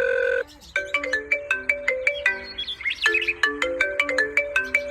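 A phone ringtone: a quick melody of short, plucked-sounding electronic notes stepping up and down in pitch, after a steady beep that cuts off about half a second in.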